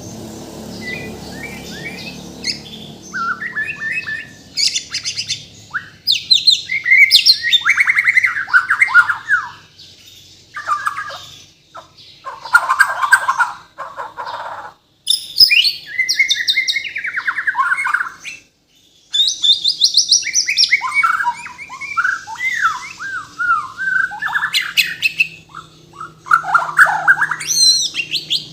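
White-rumped shama (murai batu) singing a loud, varied song of rapid whistles, trills and rattling phrases, full of mimicked calls of other birds, broken by brief pauses between phrases.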